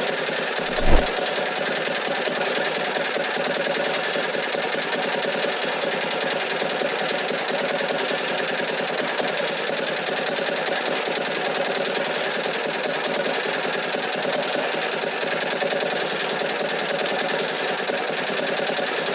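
A machine running steadily with a fast, fine rattle, and a single low thump about a second in.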